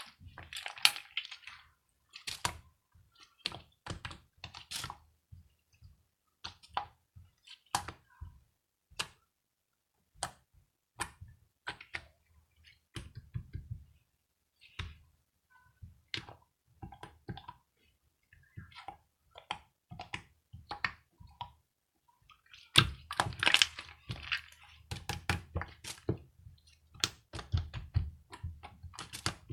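Slime being handled by hand, making a run of sharp clicks and pops with short gaps between them. The clicks get denser and fuller about three quarters of the way through.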